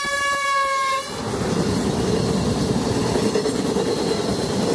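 An electric locomotive's horn sounds one blast about a second long. Then a passenger train's LHB coaches rumble steadily past at speed.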